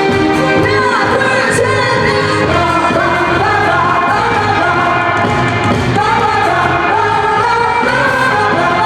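A woman singing a Korean pop song over a backing track with a steady beat, her voice coming in about a second in.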